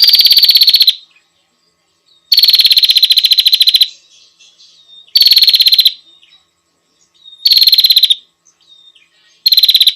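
Female prinia (prenjak) giving its rapid trilling call: five loud bursts of fast repeated notes, a second or two apart, with softer chirps between them. It is the female's call to a male, used as a lure call.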